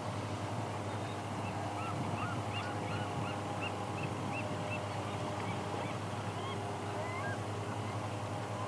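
A bird calling in a quick series of short, arched notes, about three a second, thinning out to scattered single calls. A steady low rumble runs underneath.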